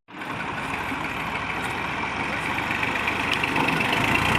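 Massey Ferguson 240 tractor's three-cylinder diesel engine running steadily, growing louder near the end.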